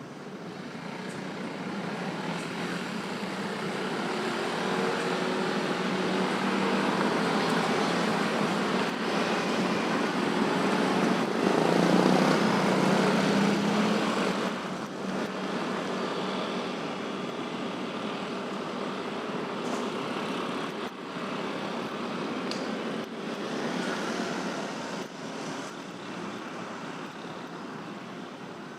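Busy road traffic, with motorbikes, cars and trucks passing. It swells to its loudest about twelve seconds in, then eases off.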